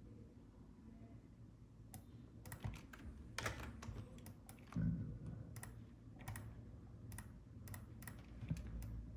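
Computer keys clicking in irregular bursts of typing, starting about two seconds in, over a faint steady low hum.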